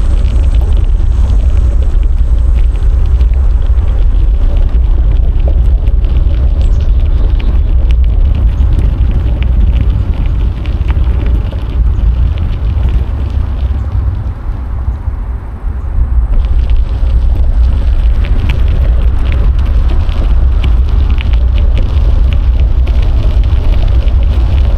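Wind buffeting a DJI Osmo Action 4 action camera's microphone while cycling: a loud, steady low rumble with tyre and road noise. The noise eases for a couple of seconds past the middle, then comes back.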